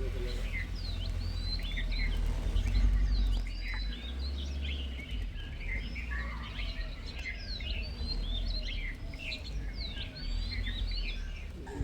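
A chorus of many small birds chirping and calling at once, short quick chirps overlapping throughout, over a steady low rumble.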